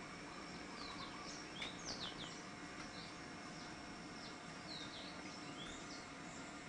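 Small birds chirping: many short, quick chirps that slide downward, thickest about one and a half to two and a half seconds in, over a faint steady hiss.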